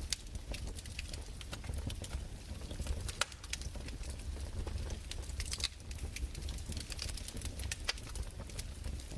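Fireplace fire crackling: irregular sharp pops and snaps over a low steady rumble.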